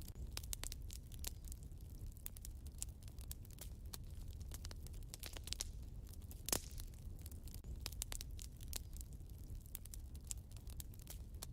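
Wood fire burning in a fireplace, crackling with many small snaps and pops over a low steady rumble; one louder pop about six and a half seconds in.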